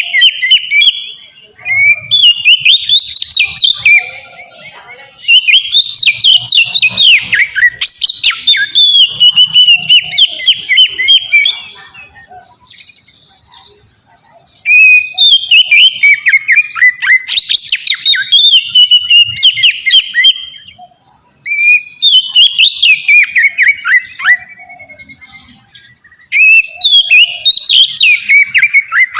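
Oriental magpie-robin singing loudly in its full, open song style, in long phrases of rapid, varied whistled notes. The phrases are broken by short pauses, the longest about twelve seconds in.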